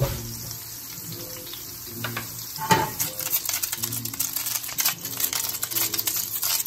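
Oyster mushrooms sizzling in a hot stainless steel sauté pan on high heat as their water cooks out. The pan is tossed, and from about three seconds in the sizzle turns to dense crackling.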